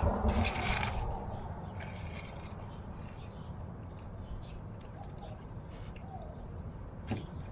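Outdoor background noise with a few faint bird calls, a brief scrape about half a second in, and a single sharp knock near the end.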